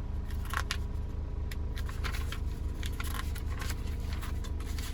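Paper rustling as a stack of MOT certificates and service documents is leafed through, in short crackly handling sounds, over a steady low pulsing hum.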